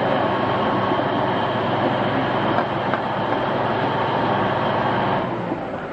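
Heavy machinery running steadily: a continuous mechanical noise with a low engine hum, dropping in level near the end.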